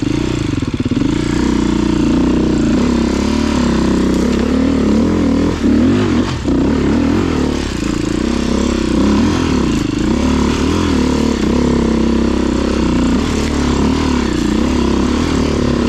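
Dirt bike engine running continuously, its pitch rising and falling as the throttle is worked, with a brief drop in level about six seconds in.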